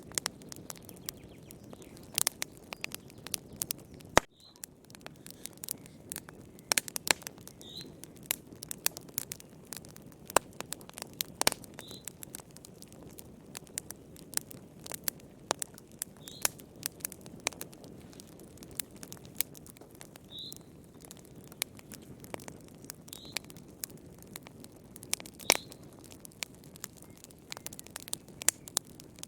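Wood fire crackling, with irregular sharp pops and snaps over a low steady hiss. A faint short high chirp recurs every few seconds.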